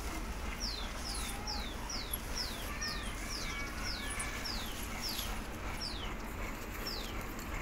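A bird calling in a repeated series of about a dozen short, high notes, each falling in pitch, roughly two a second and spacing out near the end, over a steady low rumble.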